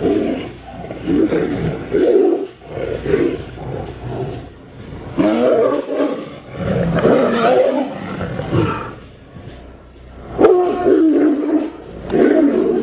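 Tiger roaring in a series of rough calls with short gaps between them, the loudest starting suddenly about ten and a half seconds in.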